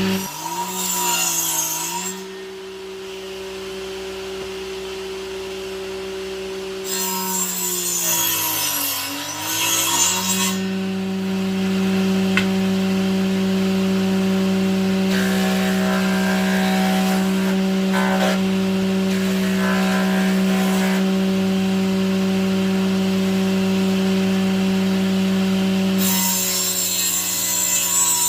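Electric power tool cutting wood. Its motor hums steadily, and its pitch sags with a harsh hiss as the blade bites, three times: near the start, about a third of the way in, and near the end.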